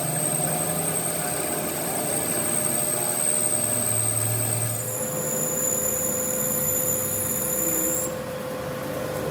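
A machine running with a steady high-pitched whine over a mechanical hum. The whine shifts pitch about five seconds in and stops about eight seconds in.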